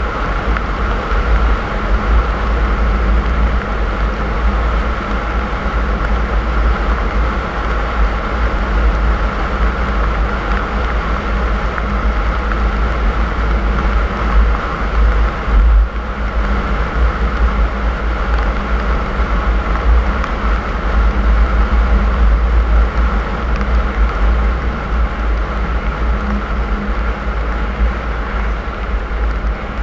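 Car driving: steady road and engine noise with a heavy low rumble.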